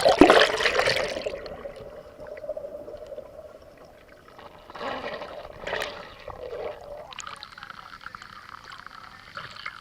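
Water splashing in a waterfall's bathing pool, with a loud splash at the very start that fades over about a second and smaller splashes after.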